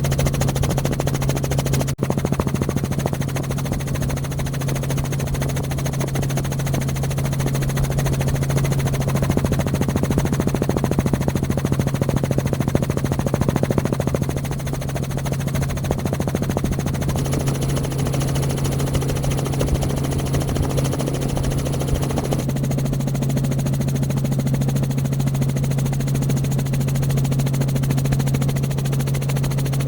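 Steady, loud engine drone with a constant low hum. It breaks off abruptly about two seconds in, then changes character around seventeen and twenty-two seconds.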